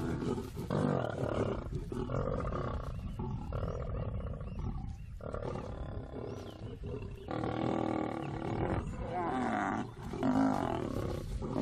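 Lions growling and snarling in a run of harsh calls, one after another, as they contest a kill.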